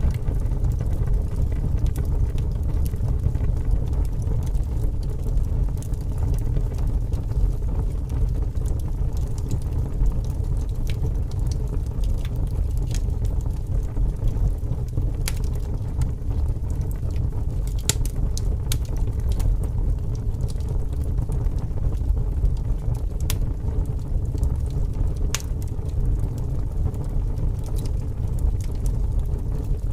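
Wood fire burning in strong wind: scattered sharp crackles and pops from the burning wood over a loud, steady low rush of wind.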